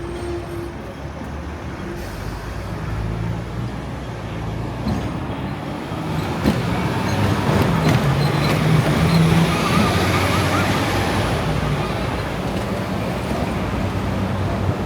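City street traffic: road vehicle engines running and passing, swelling louder in the middle. A short warbling tone is heard about ten seconds in.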